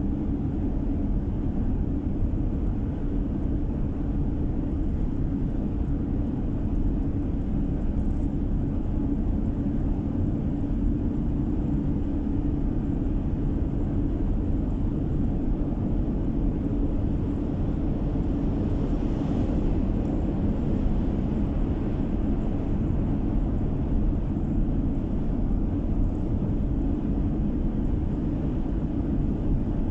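Steady low rumble of a car driving along a road, heard from inside the cabin: engine and tyre noise at an even speed.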